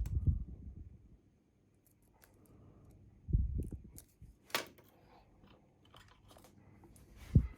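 A Bi-Lock cam lock and picking tools being worked close to the microphone: a few dull knocks and rubbing sounds, with a sharp click a little after halfway and another knock near the end.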